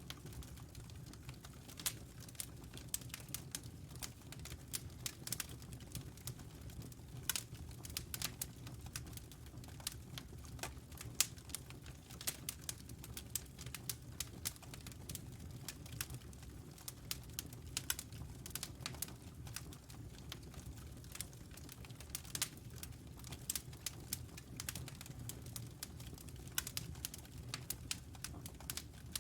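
Wood fire in a fireplace crackling, with irregular sharp snaps and pops, several a second, over a steady low rumble of the flames.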